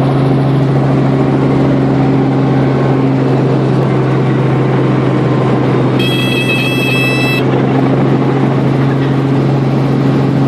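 Helicopter running steadily: a loud constant hum with a rushing noise. About six seconds in, a high electronic beep sounds for about a second and a half.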